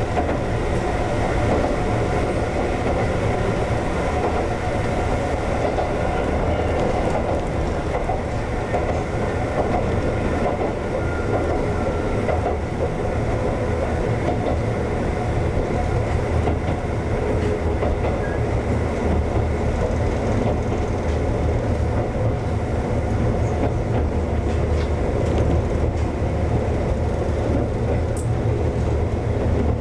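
Konan Railway 7000-series (ex-Tokyu 7000) electric train running along the track, heard from inside at the front: a steady noise of wheels on rail.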